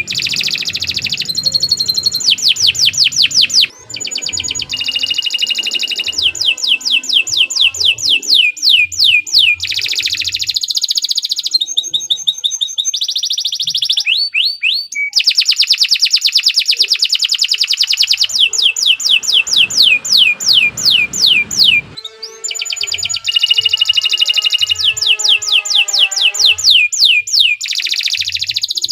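Domestic canary singing a long, continuous song of rapid rolling trills, fast runs of repeated notes that switch to a new phrase every second or two, with only brief breaks.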